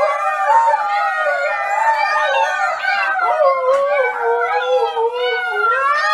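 Dogs howling together, several voices overlapping with wavering, sliding pitches.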